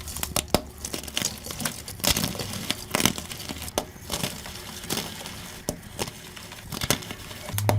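Gym chalk being crushed, with irregular crisp crunches and crackles. The playback is sped up.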